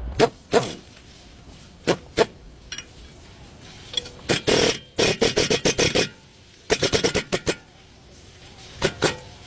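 Tool-work clatter: single sharp knocks and clicks, with two runs of quick rapid tapping, each about a second long, in the middle.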